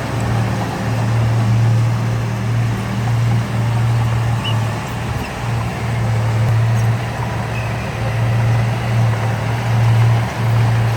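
Heavy diesel engine of an earthmoving machine running steadily with a low drone that briefly dips in level a few times.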